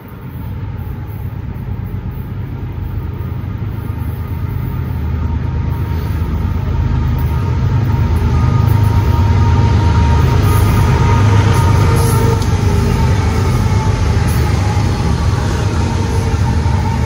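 A train running past: a deep rumble that jumps up at the start, keeps building to its loudest about halfway through, then stays loud.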